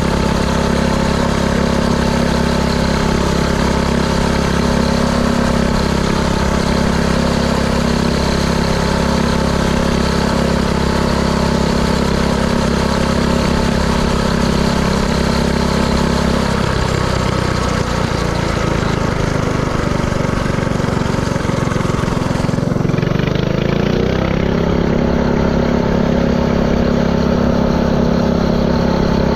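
Mini-bike's Predator 224cc single-cylinder four-stroke engine running steadily while riding. About 17 seconds in its note wavers and drops, then rises again a few seconds later and settles back to a steady run.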